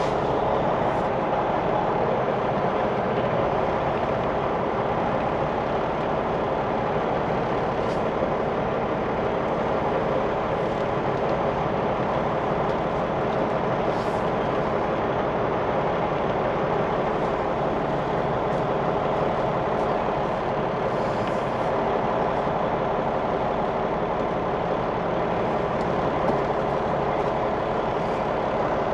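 Semi truck's diesel engine idling steadily, with no change in speed.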